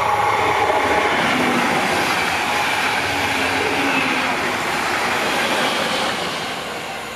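A train passing close by at high speed: a loud, steady rushing noise that starts to fade about six seconds in.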